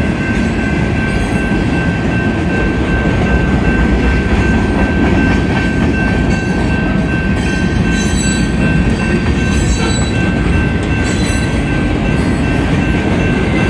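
Freight train cars rolling past close by: a steady loud rumble of wheels on rail, with a thin steady high tone over it and scattered clacks.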